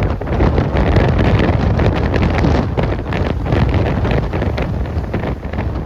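Strong gale-force wind gusts buffeting the microphone: a loud, rough, rumbling rush that flutters rapidly, coming in abruptly at the start.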